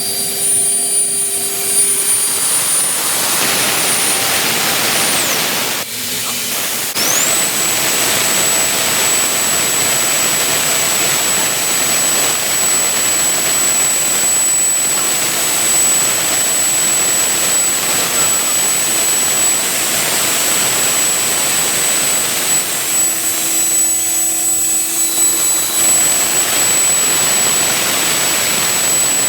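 CNC milling machine running, a steady loud machining noise with a high spindle whine. About five seconds in the whine falls away as the spindle spins down; after a brief pause it spins back up and holds at a slightly lower pitch.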